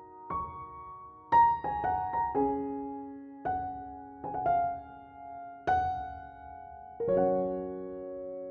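Background piano music: slow, gentle notes and chords, each struck and left to ring, ending on a held chord.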